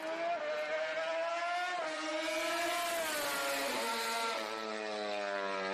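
Racing motorcycle engine sound effect, running at high revs with its pitch drifting slowly up and down.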